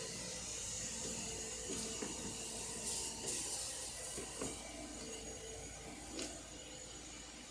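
Subaru Forester 2.5-litre flat-four engine running steadily, with a few faint clicks over the hum.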